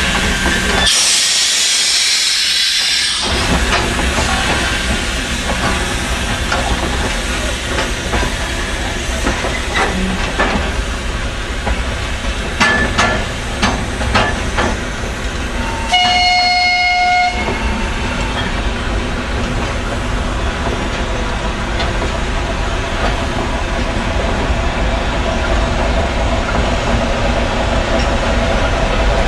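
Soviet L-class 2-10-0 steam locomotive working with its train: a loud hiss of steam about a second in, then the steady rumble and clatter of the train on the rails. About midway there is one short whistle blast, lasting about a second and a half.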